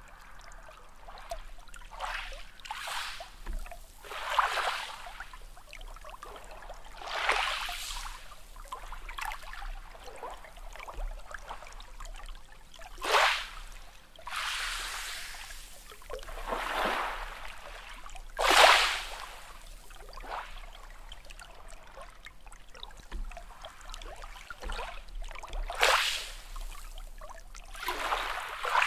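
Small sea waves washing and splashing, a hiss of water swelling and falling every few seconds with a sharper splash now and then.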